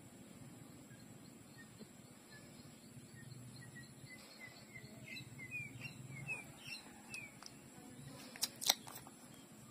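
A bird chirping: a run of short notes, about three a second, growing louder and slightly higher over a few seconds, then a few sharp clicks near the end.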